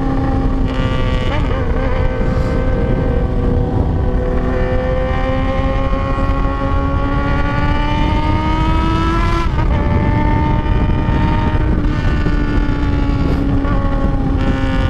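Motorcycle engine running under load at highway speed, heard from the rider's seat with wind rushing over the microphone. Its pitch climbs slowly for several seconds, drops sharply about nine and a half seconds in at an upshift, then holds steady.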